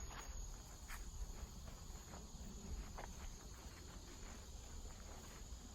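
Quiet woodland ambience: a steady high-pitched insect drone, crickets, with a few faint ticks about one and three seconds in.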